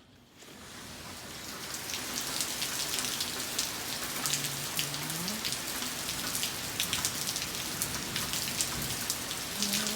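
Heavy rain pouring down, its hiss swelling up over the first second or two as a door is opened onto it, then a steady downpour with the crackle of individual drops.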